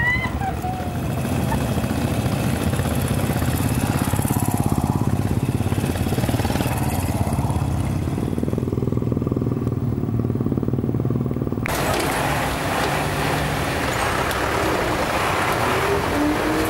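Royal Enfield Bullet single-cylinder motorcycle engine running with a steady, evenly pulsing low note. About twelve seconds in, a steady hiss switches on suddenly over it.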